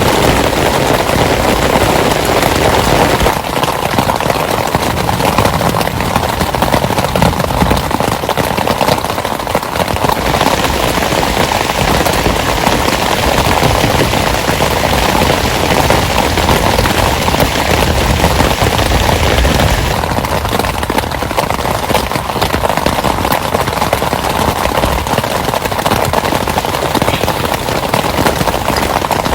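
Heavy rain coming down steadily, dense drops pattering on a surface.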